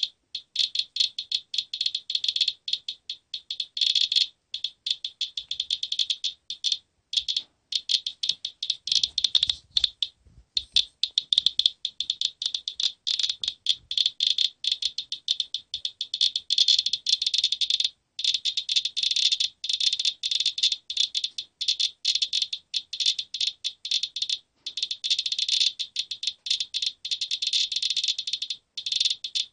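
Geiger counter clicking rapidly and irregularly in a dense stream, at a count rate the owner calls elevated. A few faint handling knocks come near the middle.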